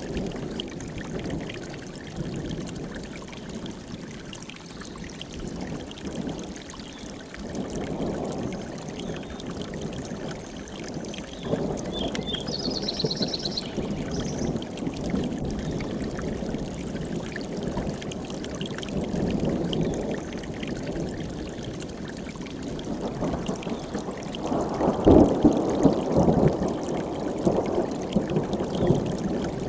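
Mountain stream rushing and babbling over rocks, its level shifting as it runs, swelling louder for a few seconds past the middle. About twelve seconds in, a short high bird trill sounds briefly over the water.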